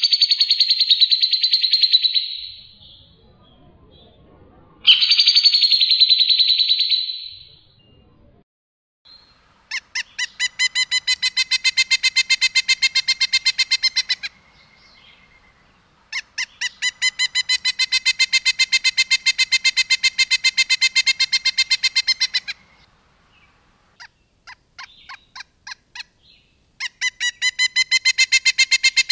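Songbird singing loudly: two harsh, scratchy calls in the first seven seconds, then long rapid-fire trills of evenly repeated notes at about seven or eight a second, broken by short pauses. This rapid repeated-note 'tembakan' style is what bird keepers play to teach their cage birds.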